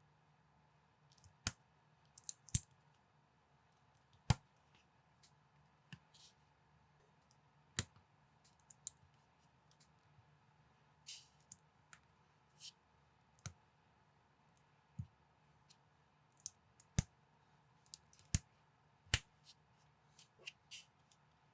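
Plastic building bricks clicking as they are snapped together and handled, in sharp, irregularly spaced clicks with a few soft rustles between them.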